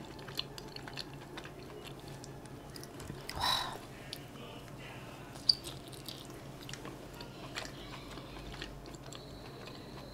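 A person chewing a mouthful of chive-and-tofu dumpling, with soft wet mouth clicks. A short breathy rush comes about three and a half seconds in, and a single sharp click near five and a half seconds.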